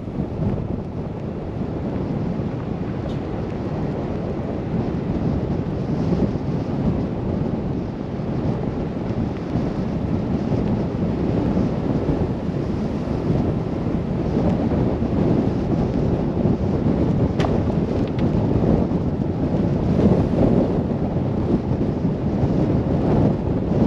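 Wind buffeting the microphone of a car driving through a snowstorm: a steady low rushing that swells a little, with one brief click about 17 seconds in.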